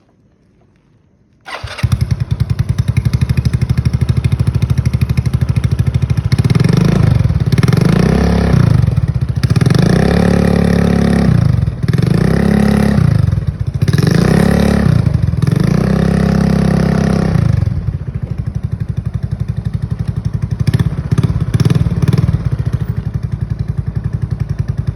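Motorcycle engine breathing through a ZRC aftermarket exhaust fitted with a drilled cone baffle, starting about a second and a half in and idling. It is then revved repeatedly in a series of throttle blips before settling back to idle, with a few short blips near the end.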